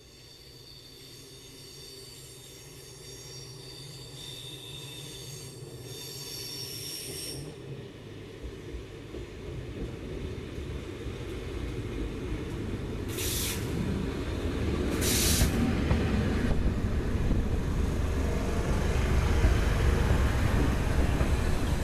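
CFL Class 2000 electric multiple unit arriving and drawing in alongside the platform. A high-pitched wheel squeal for the first seven seconds gives way to a growing rumble as the train comes closer, with two short bursts of hiss midway.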